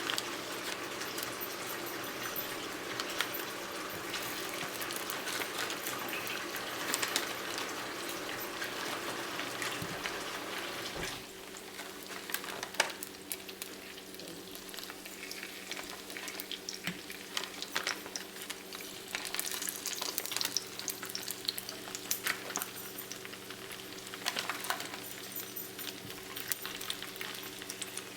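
Pierogies frying in hot oil in a pan on the stove: a steady sizzling hiss that drops suddenly about eleven seconds in to a quieter sizzle full of small crackles and pops.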